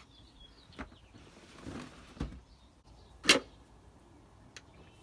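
A few scattered knocks and clicks, as of things being handled and set down, with the loudest knock about three seconds in.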